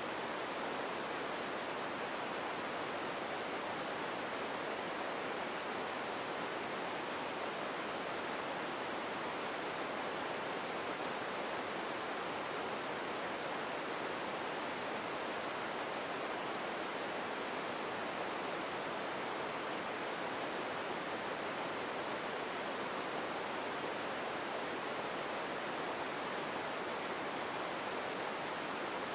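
Empty ambience noise: a steady, even hiss with no separate events and no change.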